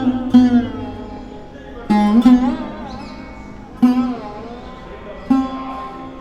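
Background music on a plucked string instrument in Indian style: single notes struck about every one and a half to two seconds, each ringing on while its pitch bends up and down.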